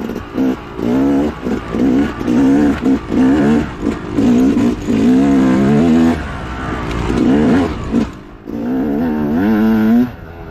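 Dirt bike engine under hard riding, revving up and down over and over as the throttle is opened and chopped, with a brief drop in revs about eight seconds in.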